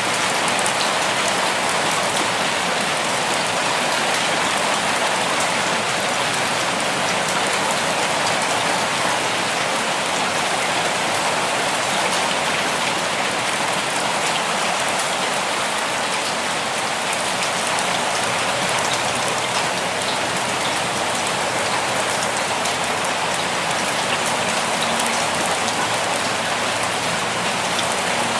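Steady rainfall, a dense even hiss of drops with fine individual patters on a surface.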